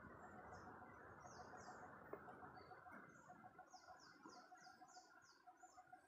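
Faint birdsong: short, high, falling chirps, with a quick run of about four a second in the second half. Under it is a faint steady hum with a fast, regular pulsing note.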